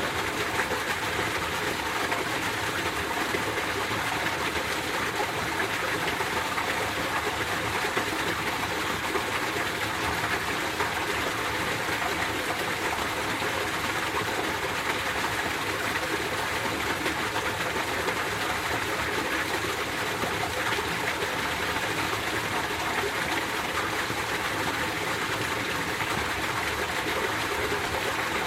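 Mountain stream flowing steadily over rocks, an even rushing of water with no pauses.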